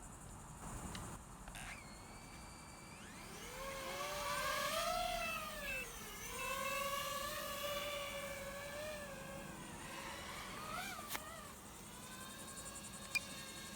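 DJI FPV quadcopter's propellers whining, starting about 3 seconds in. The pitch rises and falls smoothly as the throttle changes, then fades out near 11 seconds. A single sharp click comes near the end.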